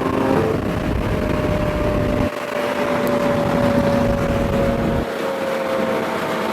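Car engine and road noise at highway speed: a steady engine drone that sinks slowly in pitch, over a low rumble that changes abruptly twice.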